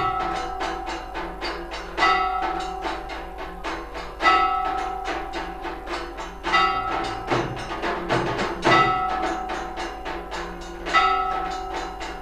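Temple aarti percussion: a large temple bell struck about every two seconds, each stroke ringing on, over a fast, unbroken run of drum and cymbal beats.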